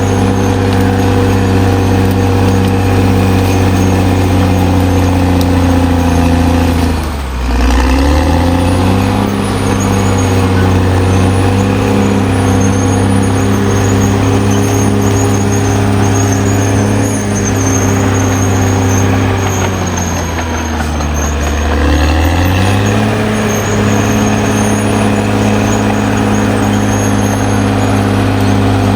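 Caterpillar D6R XL bulldozer's diesel engine running steadily under load. Its speed drops and climbs back up twice, about a quarter of the way in and again about three-quarters in.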